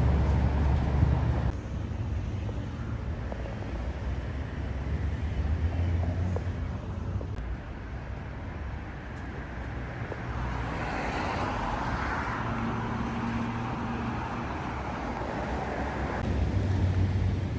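Car engines rumbling with general traffic noise, louder for the first second or so. A car passes, its sound swelling and fading about eleven seconds in.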